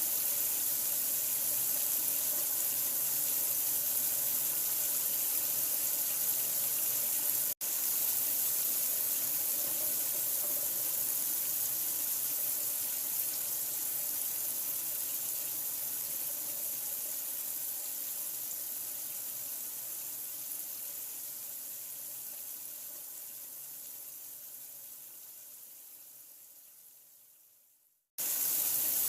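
Running water hissing steadily, like a tap running into a sink. It cuts out for an instant a few seconds in, then fades gradually to silence near the end and starts again abruptly.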